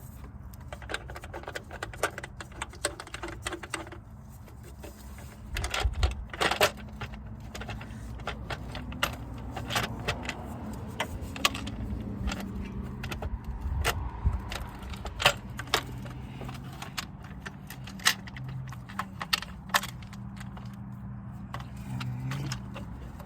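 Irregular metallic clicks and clinks of hand tools and loose parts as a car engine's valve cover is worked free, over a low steady hum.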